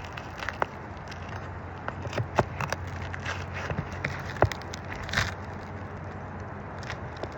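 Pry bar working roofing nails out of 3-tab asphalt shingles: scattered sharp clicks, taps and scrapes of metal on nails and shingle, the sharpest about four and a half seconds in.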